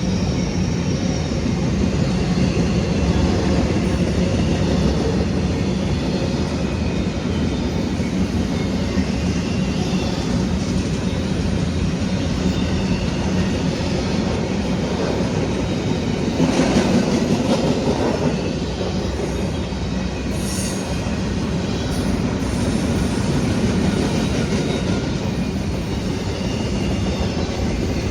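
CSX intermodal freight train of empty well cars rolling past, a steady rumble and clatter of steel wheels on rail. About two-thirds of the way through, a louder stretch with higher-pitched wheel noise stands out.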